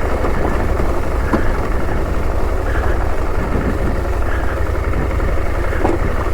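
KTM 890's parallel-twin engine running steadily at low revs while the motorcycle is ridden on a rough mountain trail, with a few faint ticks over the steady low rumble.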